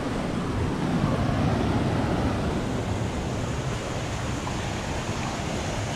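Steady rushing of falling water from a large waterfall, an even noise without a break.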